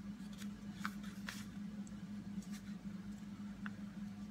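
Lightweight copy paper being folded by hand: a few faint, scattered rustles and taps, over a steady low hum.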